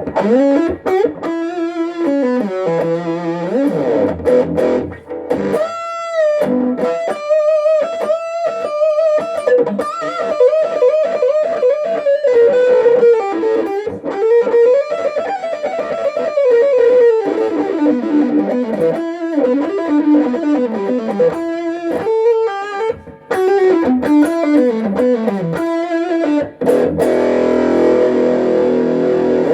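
Electric guitar, a Vintage V100 Lemon Drop played through a Peavey Backstage Plus amp, playing a single-note lead line with string bends and vibrato, then letting several notes ring together near the end.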